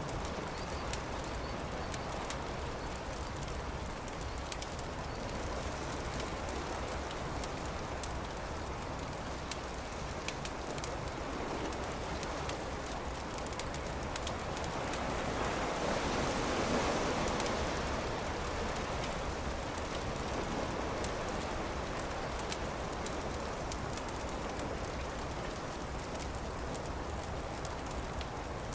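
Campfire crackling with scattered small pops over a steady hiss, while surf washes in the background; a wave swells and fades about halfway through.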